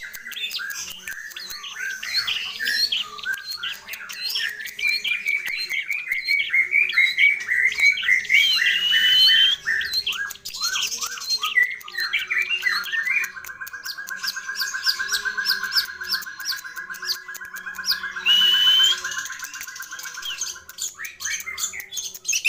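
Long-tailed shrike (cendet) singing a long, rapid, varied song packed with mimicked phrases. About halfway through it switches to a fast, steady buzzy rattle held for about eight seconds, with a clear whistle over it near the end, then returns to quick varied notes.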